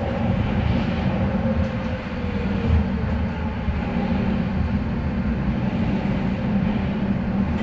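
Docklands Light Railway train running, heard from on board: a steady rumble of wheels on track. A whine falls slightly in pitch over the first few seconds and then fades.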